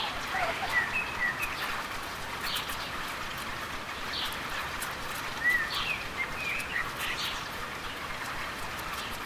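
Fast-flowing stream rushing steadily, with birds chirping over it: short calls here and there, a cluster about a second in and another around five to seven seconds in.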